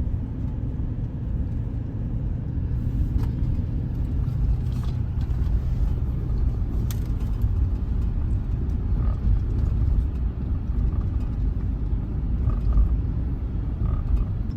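Steady low rumble of engine and tyre noise inside a moving vehicle's cabin, with a few faint ticks.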